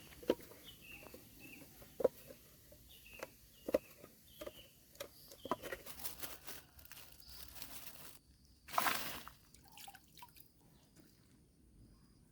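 Short high bird chirps repeating over a scatter of light knocks and taps. A brief louder rustle of noise comes about nine seconds in.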